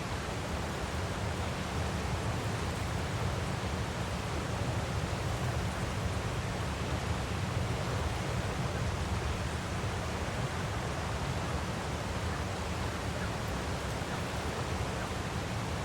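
Steady rushing of a waterfall: an even, unbroken hiss of falling water over a deep, constant rumble.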